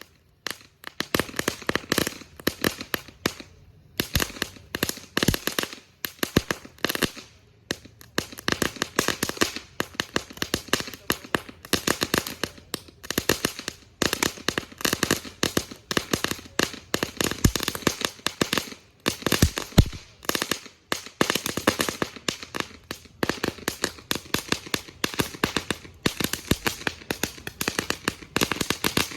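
A long-burning consumer firework going off in a rapid, irregular string of sharp bangs and crackles, with brief lulls a few seconds in and the loudest bang about two-thirds of the way through.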